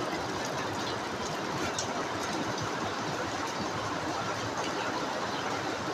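Heavy rain falling steadily, a constant hiss with scattered drips ticking through it.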